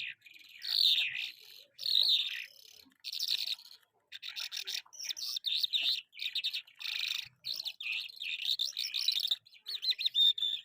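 A lark singing a long, varied song of rapid warbles and trills in quick-fire phrases, with a brief pause about four seconds in.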